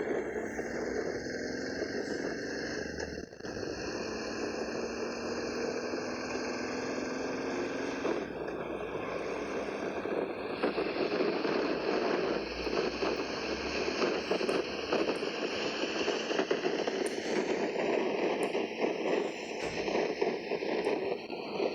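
Motorcycle engine running under way with road noise, its pitch rising slowly at first. After about eight seconds the sound turns rougher and crackly.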